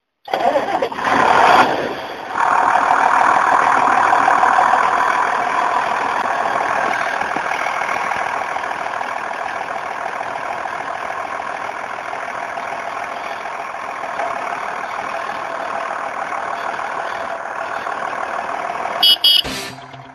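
John Deere 7800 tractor engine running steadily while ploughing, with a brief dip about two seconds in.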